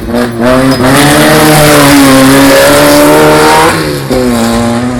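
Volkswagen race car's engine running hard at high revs, loud, its pitch climbing a little. The sound breaks off briefly about three and a half seconds in, then the engine note picks up again.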